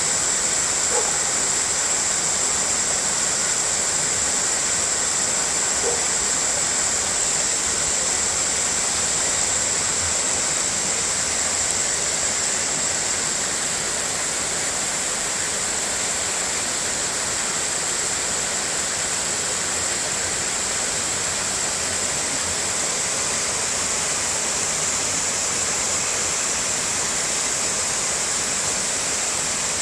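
Waterfall with water pouring steadily in an even rush, and a steady high hiss over it.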